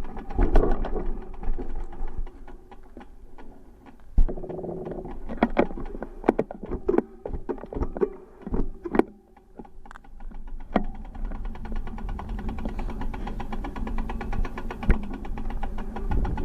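Bicycle riding sounds: a low wind rumble on the microphone with irregular knocks and rattles, then a fast, steady ticking over the second half.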